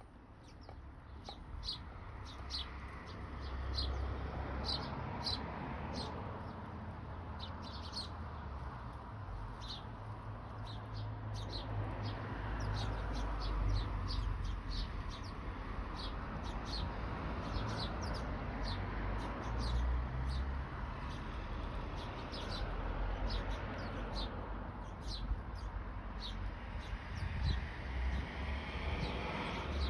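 Small birds chirping: quick, short, high calls, several a second, over a steady low rumble.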